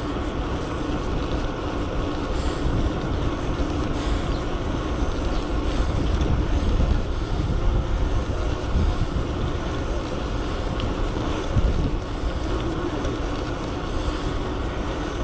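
Wind buffeting the microphone with steady road rumble while riding an electric bike at speed.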